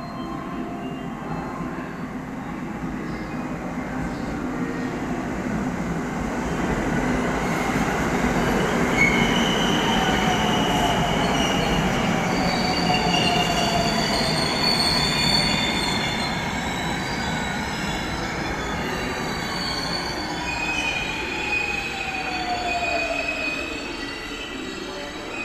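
Train moving along the station tracks, wheels squealing on the rails with high-pitched squeals over a steady rumble, and a whine that slides down in pitch through the middle and latter part, louder in the middle.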